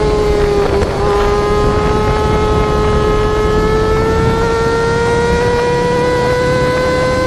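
High-revving sport-bike engine, the Yamaha R6 exhaust sound dubbed onto the ride, held near the top of its revs. It gives a steady high-pitched wail that dips briefly about a second in, then slowly climbs in pitch.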